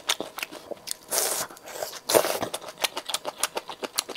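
Close-miked mouth sounds of a person biting and chewing saucy skewered meat-and-vegetable rolls: many small wet clicks, with two louder bites about a second and two seconds in.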